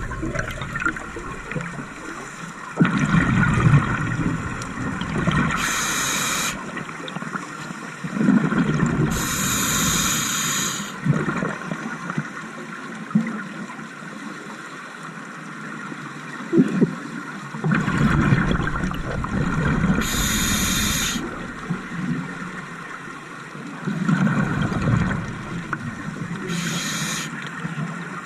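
Scuba diver breathing underwater through a regulator: a short high hiss on each inhale alternates with a low bubbling rush of exhaled air, a slow breath every few seconds.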